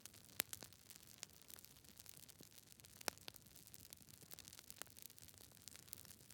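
Campfire burning close by, wood crackling and popping irregularly over a soft hiss, with two sharper pops, about half a second in and about three seconds in.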